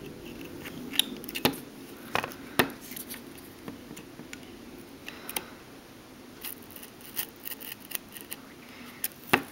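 X-Acto hobby knife cutting masking tape on an airsoft M4's receiver: scattered sharp clicks and short scrapes as the blade is drawn along the tape's crease.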